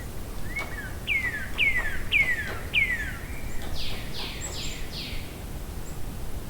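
A songbird singing one phrase: about five quick whistled notes, each falling in pitch, followed by four higher, harsher falling notes. It sings over a steady low outdoor rumble, with a few faint taps underneath.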